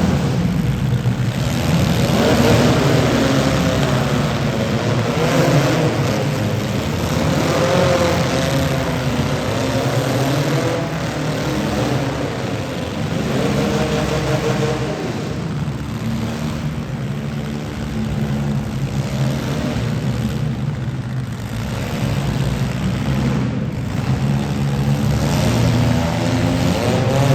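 Several demolition derby car engines running and revving at once, their pitch rising and falling.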